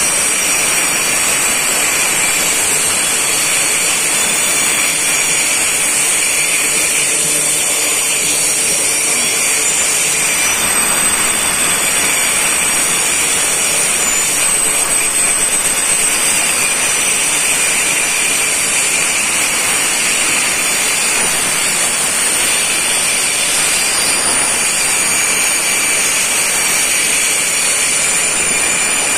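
Freight train wagons rolling past on the rails, a steady loud rolling noise of wheels on track with thin, steady high-pitched squealing tones over it.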